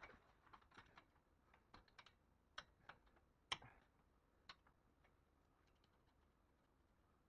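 Near silence broken by faint, irregular clicks and light taps, about a dozen in the first five seconds, the loudest about three and a half seconds in.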